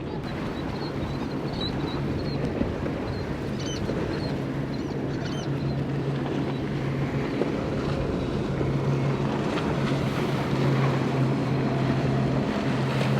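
Boat engine running with a steady low drone that grows louder as the boat comes closer, over wind and surf noise.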